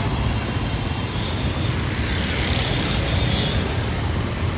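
Street traffic: vehicles running and passing on the road, a steady low rumble with a louder passing vehicle around the middle.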